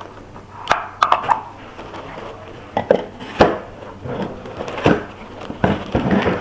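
Irregular clicks and light knocks of a small plastic humidifier being handled, its parts knocking together, about eight in all.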